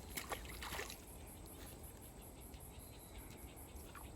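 Faint outdoor ambience with a few soft clicks in the first second, then a low steady hush.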